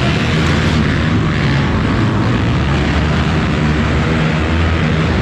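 Monster truck engine running loud and steady, a deep multi-toned rumble.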